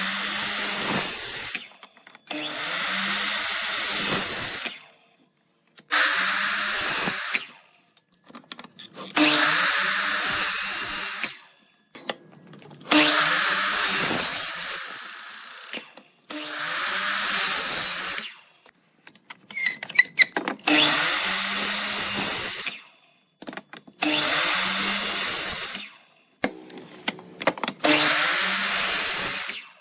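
Handheld power tool working wood, switched on and off about nine times in runs of about two seconds. Each run opens with a rising whine as the motor spins up, then runs steadily until it stops. Small knocks and clicks fall between the runs.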